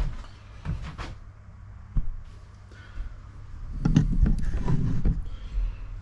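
Workshop handling noises: several sharp knocks, then a louder stretch of clattering and rumbling about four seconds in, over a steady low hum.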